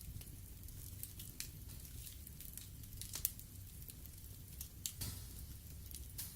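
Wood fire burning in a fireplace: logs crackling and popping irregularly over a low rumble of the flames, with a sharp pop a little after three seconds in and another near five seconds.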